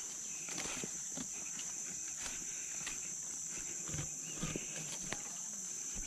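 Steady high-pitched drone of rainforest insects, with irregular footsteps crunching through undergrowth.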